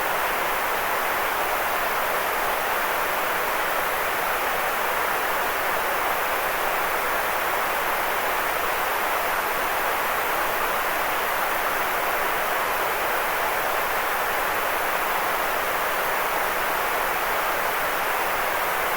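White noise: a steady, unchanging hiss, fullest in the middle range and softer in the bass and the highest treble.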